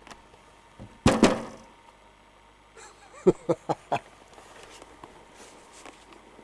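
A heavy double bang with a short ringing tail, then a quick run of about five knocks a couple of seconds later.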